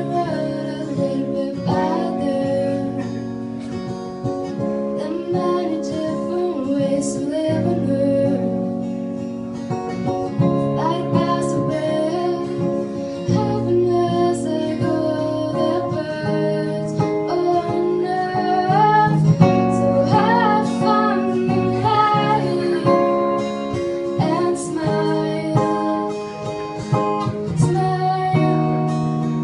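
Acoustic guitar played in a live performance of a singer-songwriter song, with a woman singing over it.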